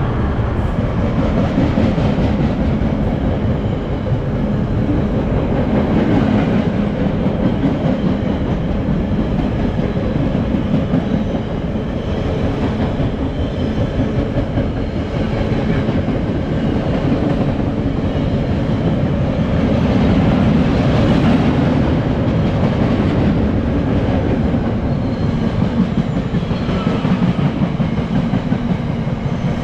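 Freight wagons of a waste train rolling steadily past, their wheels clattering over the rail joints in a continuous clickety-clack.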